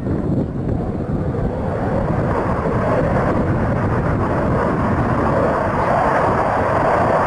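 Jet noise from a Sukhoi Su-27's twin turbofan engines during a flying display, growing louder from about two seconds in as the aircraft comes closer.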